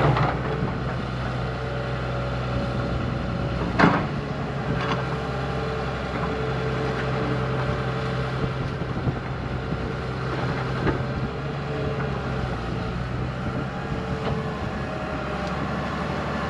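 Diesel engine of a heavy earthmoving machine running steadily, with a single sharp clank about four seconds in.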